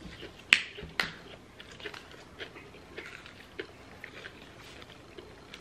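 Close-up eating sounds: chewing and biting into food, with small scattered crunchy clicks and mouth noises. Two sharp clicks stand out, about half a second and a second in.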